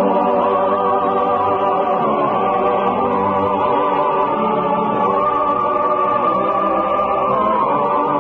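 Choir singing long, sustained chords, steady and loud, with nothing of the speech around it. The recording is an old radio broadcast, thin and lacking the high end.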